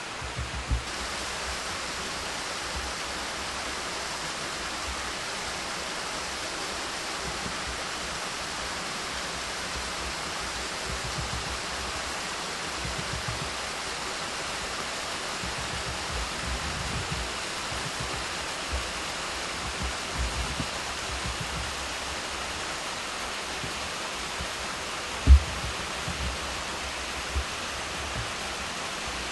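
Steady rush of a partly frozen waterfall. Scattered low bumps lie under it, with one sharper thump about three-quarters of the way through.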